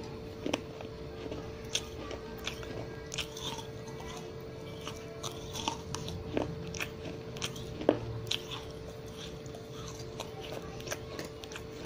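Close-miked mouth chewing and crunching clay pieces: irregular sharp crunches and clicks, the loudest about eight seconds in.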